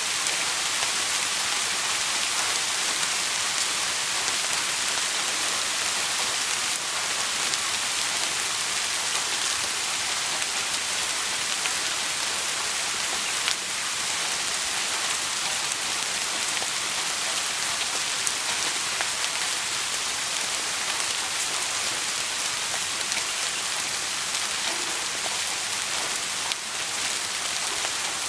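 Steady rain falling in an even hiss, with a few faint sharp clicks.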